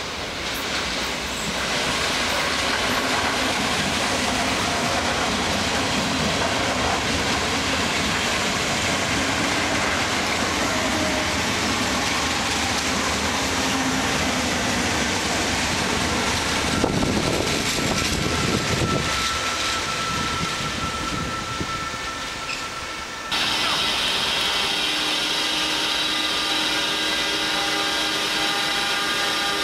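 NS Sprinter electric multiple unit passing close by, with a steady rush of wheels on rail and a louder clatter a little past the middle. It cuts off suddenly about three-quarters through, giving way to a steady whine of several held tones from a standing class 186 electric locomotive.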